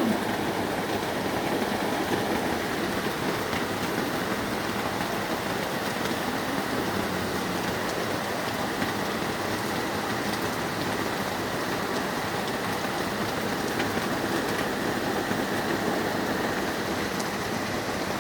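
Heavy rain falling steadily, an even wash of noise with no breaks.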